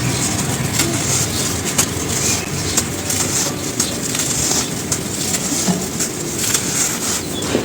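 Dry charcoal ash lumps being crushed and crumbled: a continuous crunching with many sharp crackles all through.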